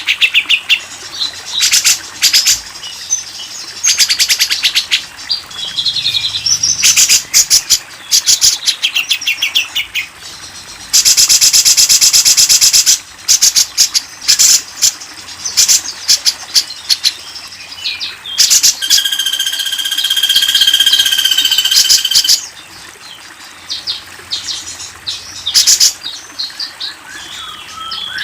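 Bird-song training recording of wild songbirds (tengkek buto, cililin, cucak cungkok and cucak jenggot): loud, fast series of short high chattering call notes. A dense rapid trill comes a little before the middle, and a steady held whistled note about two-thirds through.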